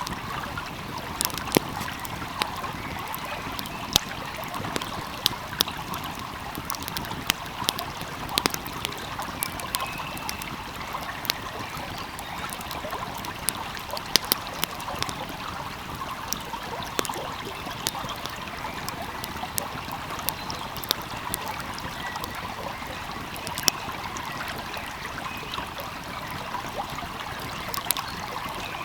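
Wood fire crackling with irregular sharp pops over the steady rush of a flowing stream.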